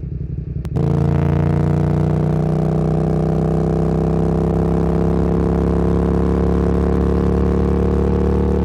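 Motorcycle engine pulling under acceleration. Under a second in there is a short click, and the engine note jumps louder, then climbs slowly and steadily in pitch.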